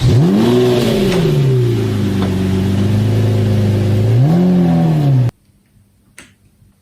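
Toy BMW car's built-in electronic engine sound effect. A rev rises and falls, settles into a steady idle, revs again, then cuts off suddenly about five seconds in.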